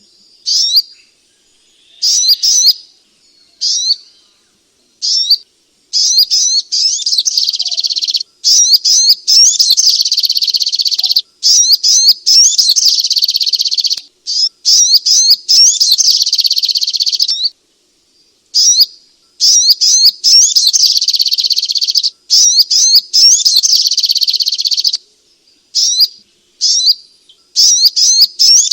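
Sogok ontong songbird singing: rapid, high-pitched twittering and chirps in runs of several seconds broken by short pauses, played as a recording to coax another bird into singing.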